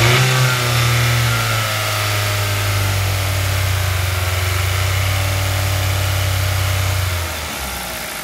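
Kia/Hyundai 1.6-litre 16-valve G4FG four-cylinder petrol engine held steady at about 3000 rpm. The revs fall away about seven seconds in.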